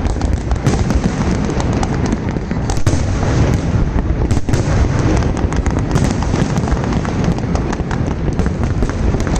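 Fireworks display going off: a dense run of sharp cracks and pops over a continuous low booming rumble.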